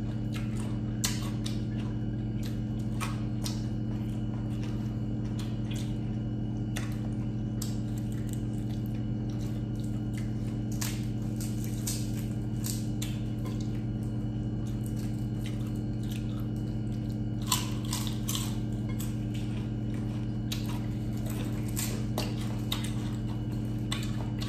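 Close-up chewing and crunching of crispy fried chicken skin and bagnet (deep-fried pork belly), with irregular sharp crunches, one louder about two-thirds of the way in. A steady low hum runs underneath.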